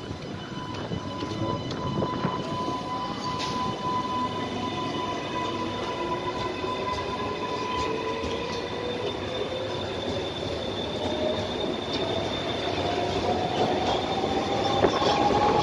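Electric passenger train moving through the station, its motors whining with a pitch that rises steadily through the second half as it gathers speed, over a steady high ringing tone and scattered wheel clicks on the rails; the sound grows louder toward the end.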